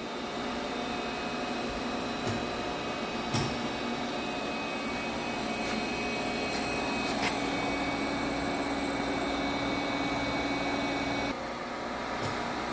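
Tschudin HTG310 universal cylindrical grinder running its plunge grinding cycle: a steady machine hum with a few clicks. A higher steady tone joins partway through, and it and part of the hum cut off about eleven seconds in.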